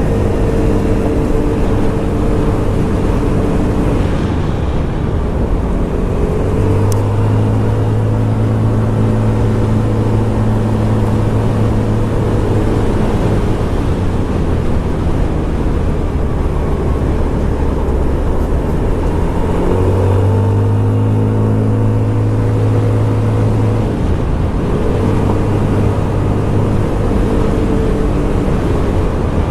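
Scomadi TT125 scooter's 125 cc engine running on the move, over steady road and wind rumble. Its note falls and rises again several times as the throttle is eased and opened.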